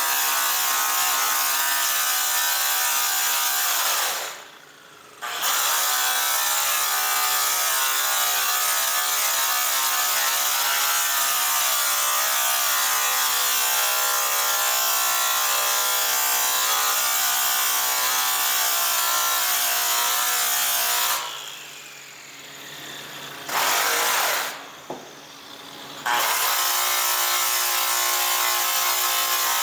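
A handheld electric power tool motor runs with a steady whine. It winds down and stops briefly about four seconds in and twice more near the end, spinning back up each time.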